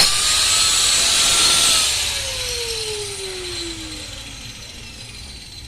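An electric power tool starts abruptly and runs loud for about two seconds with a bright, hissing grind. It is then switched off and winds down with a steadily falling whine.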